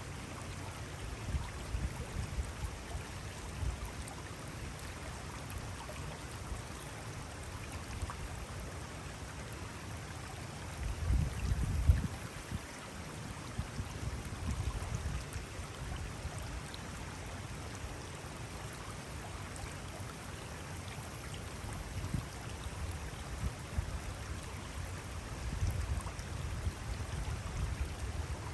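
Mountain stream flowing steadily, with irregular low rumbles and bumps underneath, the loudest about eleven seconds in.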